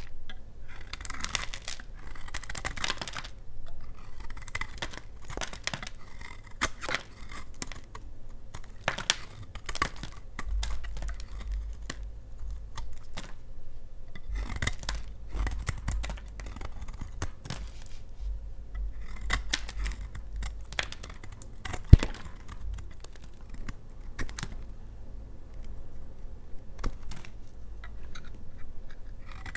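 Knife cutting through bars of dry laundry soap: a run of crisp scraping, crackling cuts with many sharp clicks, and one loud snap about three-quarters of the way through.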